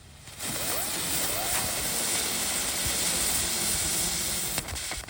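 Flying Dragon jumping bug fireworks (small ground spinners) hissing loudly as they spin after lighting, starting about half a second in and cutting off fairly suddenly near the end, with a few faint rising-and-falling whistles about a second in.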